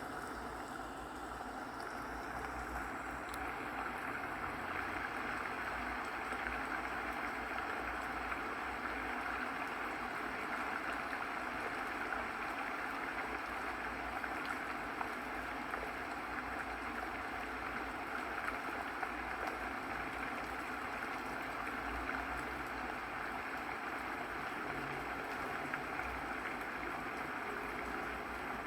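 Running water flowing steadily, an even rushing sound that swells in over the first second or two and then holds.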